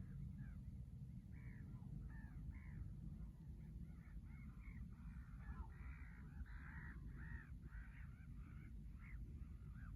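Birds calling: many short, arched calls in quick succession, some overlapping, starting about a second in, over a steady low rumble.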